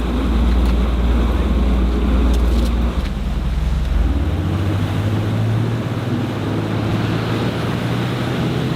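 Jet boat's engine running hard under the load of towing a submerged boat, with a rush of water; about four seconds in, its low hum steps up in pitch as the throttle opens.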